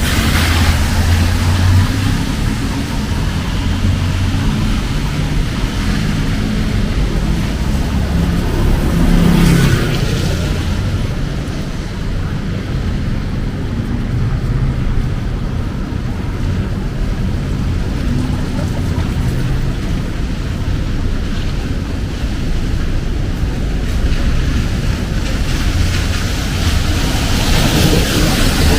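Heavy rain falling on a city street, with car traffic running and passing through it. One vehicle passes more loudly about ten seconds in.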